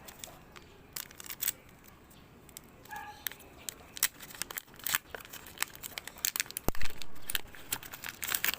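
Crinkly foil wrapper of a trading card pack being torn open and handled, a run of irregular crackles and tears with a louder burst of crinkling near the end.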